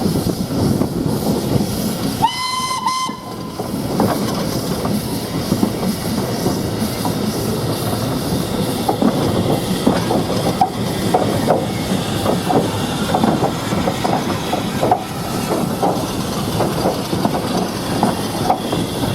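Steam train running with a steady rumble and wheels clicking over rail joints, irregularly. A single steam whistle blast of about a second sounds about two seconds in.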